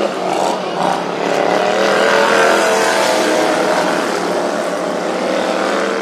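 Racing lawnmower engines running loud and continuous, their pitch wavering a little as they rev.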